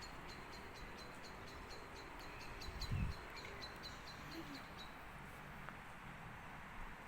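Wind blowing steadily, with a bird repeating a short high chirp about four times a second until about five seconds in, and a low thump about three seconds in.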